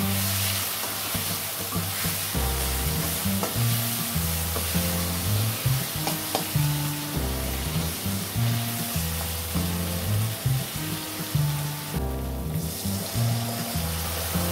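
Onion-tomato masala with spices frying and sizzling steadily in a hot aluminium kadhai, stirred with a steel ladle that clinks now and then against the pan. The sizzle briefly drops out near the end.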